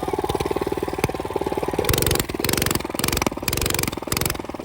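Minibike engine running close by with a rapid, even firing beat, surging louder in uneven pulses from about two seconds in.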